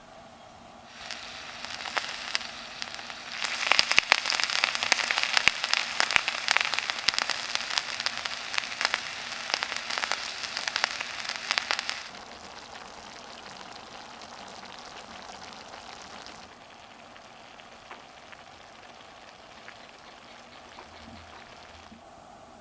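Food sizzling and spitting on a barbecue grill, a dense crackling hiss full of small pops. It starts about a second in, grows loud a few seconds later, drops off suddenly about halfway through and fades out.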